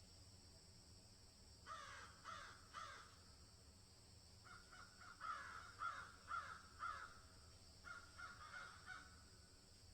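Faint bird calls, short and repeated in groups: three about two seconds in, a run of five or six from about four and a half seconds, and three more near the end.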